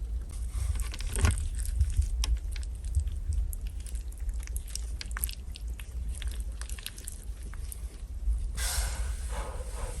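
Crunchy chewing and small sharp clicks close to the microphone, over a steady low rumble.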